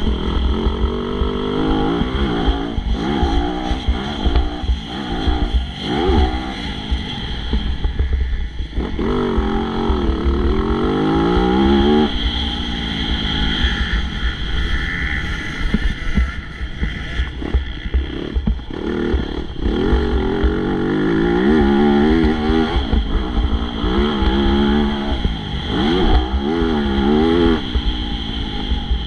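MX2 motocross bike engine revving hard, its pitch climbing and dropping again and again through gear changes and throttle chops, over a heavy low rumble.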